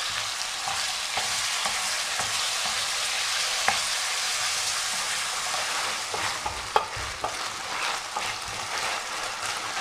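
Pieces of marinated chicken breast sizzling in oil with fried onion in a stainless steel pan, stirred with a wooden spoon. The sizzle is a steady hiss, with a few sharp knocks of the spoon against the pan, the clearest about a third and two thirds of the way through.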